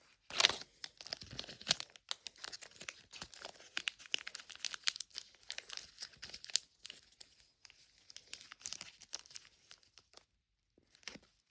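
Plastic wrapping on a Mini Brands toy capsule ball being torn and crinkled open. The crackling is dense and stops about ten seconds in, and one short rustle follows near the end.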